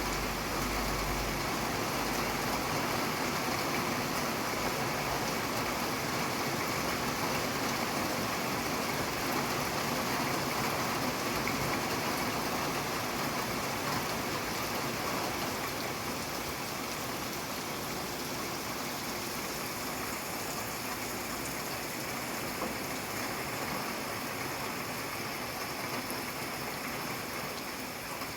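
Steady rain falling, an even hiss that eases slightly in the second half. A low rumble sits under it in the first second or two.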